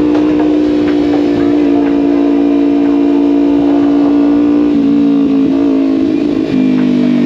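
Motorcycle engine running at a steady pitch, then dropping lower in two steps near the end with a brief dip in loudness.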